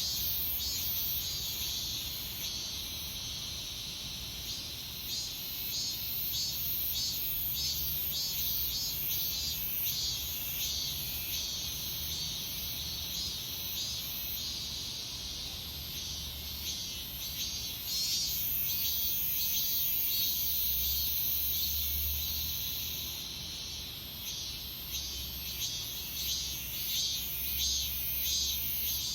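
A chorus of cicadas singing in late summer: several insects buzzing in rapid, pulsing rhythms, with one high unbroken buzz taking over for several seconds past the middle.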